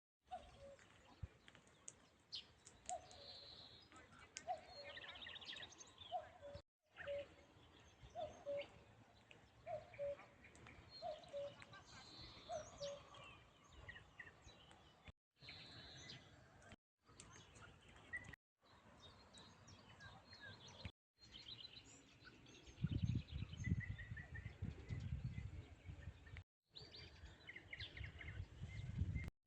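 Common cuckoo calling its two-note "cuck-oo", high note then lower, over and over about once a second for the first dozen seconds, with other small birds chirping and trilling higher up. Later a low, uneven rumbling noise comes in under the birdsong.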